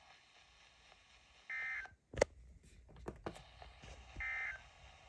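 Two short electronic beeps, each about half a second long and about two and a half seconds apart. Between them the radio feed drops out briefly and gives several sharp clicks.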